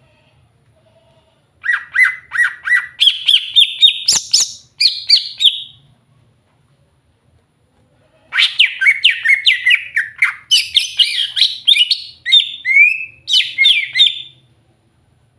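Green leafbird (cucak hijau) singing in two bursts of rapid, varied chirps and whistled notes, separated by a pause of about two and a half seconds.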